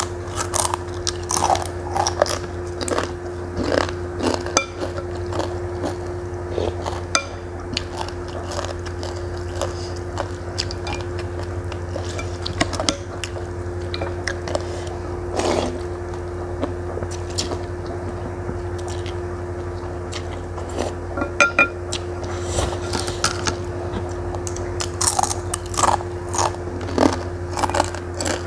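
Close-miked chewing and crunching of crisp fried pieces, with a steady low hum underneath.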